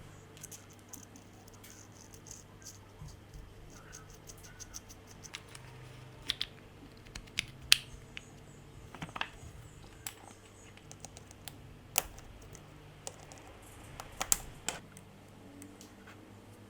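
Irregular light clicks and taps of small hard parts being handled, with a few louder sharp clicks, over a faint steady low hum.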